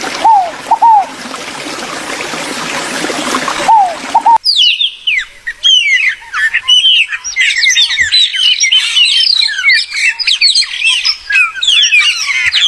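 Running water with a low two-note call repeated a few times over it. About four seconds in the sound cuts abruptly to a dense chorus of many songbirds chirping and twittering at once.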